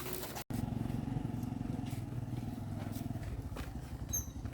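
An engine running steadily with an even low pulse, after a brief cut-out of the sound about half a second in.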